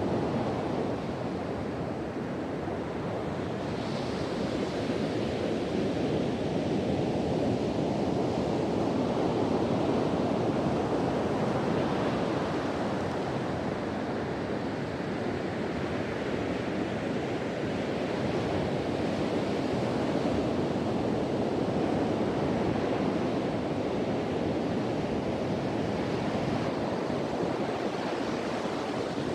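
Ocean surf breaking on a beach in continuous rolling waves, swelling and easing every few seconds, with wind rushing over the microphone.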